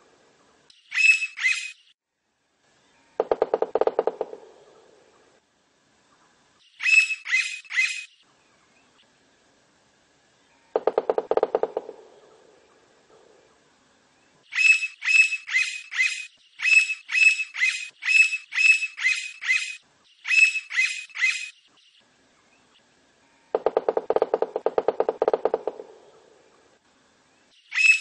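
Blond-crested woodpecker calling in short groups of three or four sharp, high notes, with a long run of such groups about halfway through. Three lower, rapid rattling bursts of about a second or two each fall in between.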